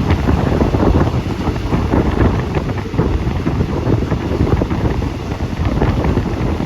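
Wind buffeting the phone's microphone in gusts, over the low rumble of a moving train.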